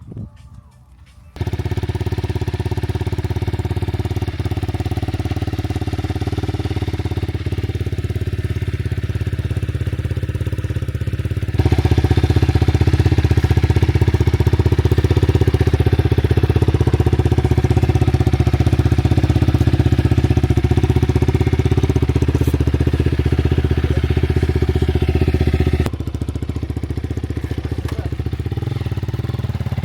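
Enduro motorcycle engine idling steadily, coming in suddenly about a second in; it gets noticeably louder partway through and drops back a little near the end, with no revving.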